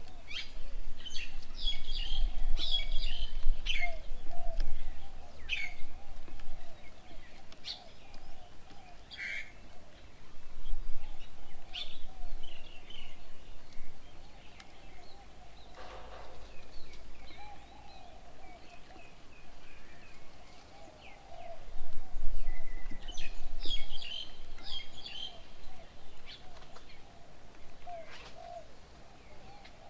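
Wild birds calling around a garden bird table: clusters of quick, high chirps come and go, busiest near the start and again later on, over a steady wavering chatter of lower calls.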